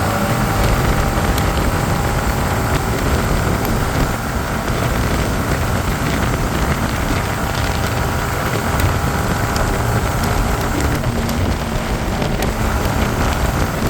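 Motorcycle on the move: steady wind rush across a helmet-mounted microphone over the engine's even drone.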